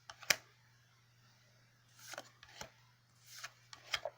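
Trading cards being handled: a sharp click about a third of a second in, then a few short, soft sliding swishes as cards are moved through the hands.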